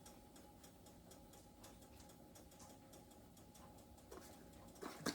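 Near silence: room tone with faint, evenly repeating ticks and a faint steady hum, and a single click near the end.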